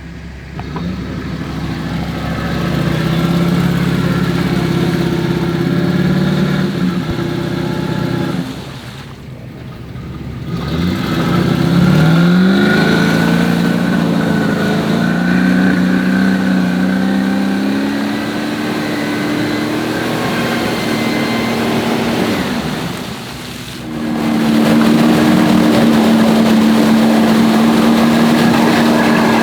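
A 4x4's engine running under load, revving and holding. It drops off briefly twice, about nine and about twenty-three seconds in, climbs in pitch after the first drop, then holds a steady, higher-pitched note.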